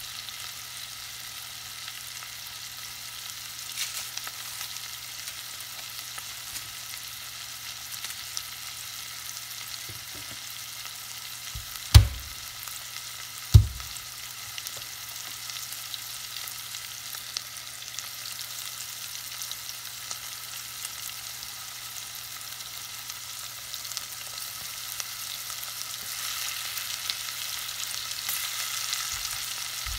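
Tuna steak searing in butter in a pot, a steady crackling sizzle. Two dull thumps come close together about halfway through, and the sizzle grows louder near the end as more is dropped into the pan.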